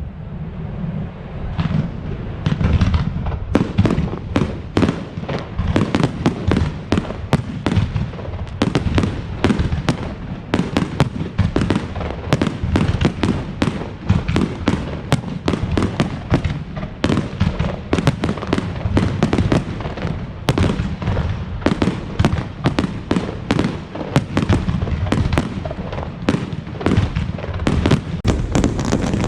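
Aerial fireworks display: a dense, continuous barrage of shell bursts and crackling reports, several bangs a second over a deep rumble of booms.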